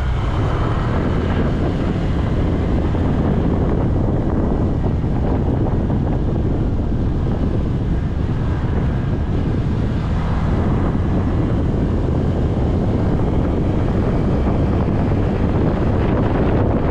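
Wind noise buffeting a GoPro Hero 9's microphone on a moving motorcycle, a steady loud rumble, with the motorcycle's engine running underneath.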